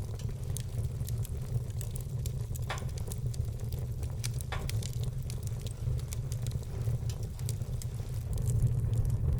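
Wood fire burning in a fireplace: a steady low rumble with scattered small crackles, and two louder pops about three and four and a half seconds in.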